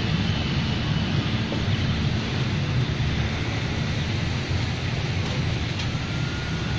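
Steady low rumble of a passenger train running away down the track, mixed with wind buffeting the microphone.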